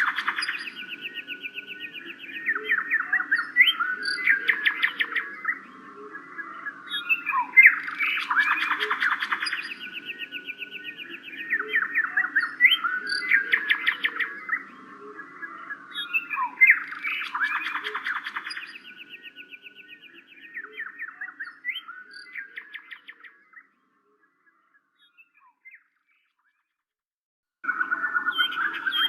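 Birds chirping and calling in repeated busy phrases that come back every four or five seconds. They fade away about three-quarters of the way through, and after a few seconds of silence the chirping starts again near the end.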